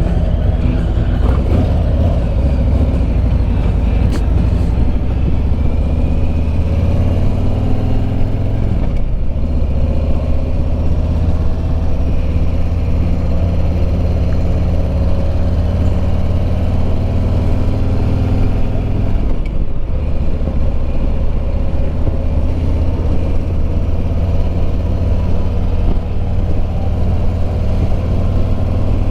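Harley-Davidson Road Glide Limited's Milwaukee-Eight 114 V-twin running at road speed under steady wind noise. The engine note dips briefly twice, about a third and two thirds of the way in.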